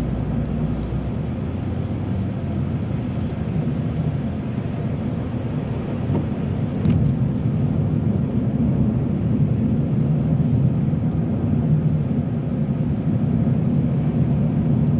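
Car driving on a snowy road, heard from inside the cabin: a steady low rumble of engine and tyres that grows a little louder about seven seconds in.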